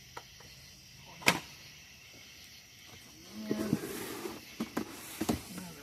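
Cardboard packing being handled and pulled out of a box: a sharp snap about a second in, then scraping and several clicks, with a brief low hum partway through.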